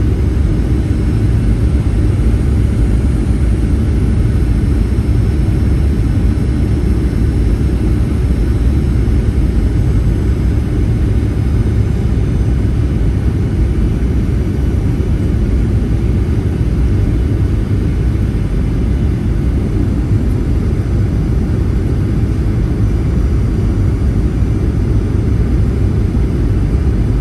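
Steady cabin noise inside a Boeing 737-800 airliner: an even, low rumble of its CFM56 jet engines and airflow, with no sudden changes.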